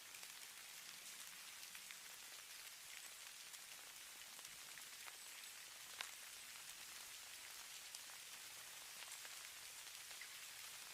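Faint, steady hiss of falling snow, with scattered light ticks of precipitation landing and one sharper tick about six seconds in.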